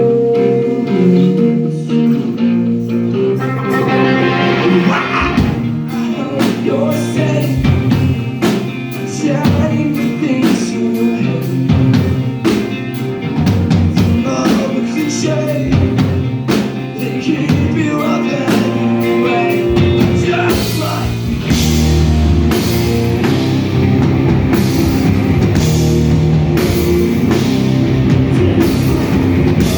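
Live rock band playing loudly: electric guitars and bass holding chords over a drum kit. About two-thirds of the way in, the music turns heavier and denser.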